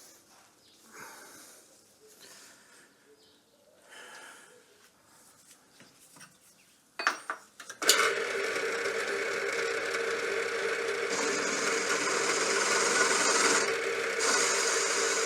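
Metalworking milling machine switched on about eight seconds in and running steadily, after a few quiet handling clicks, as a slot is milled in a small steel workpiece.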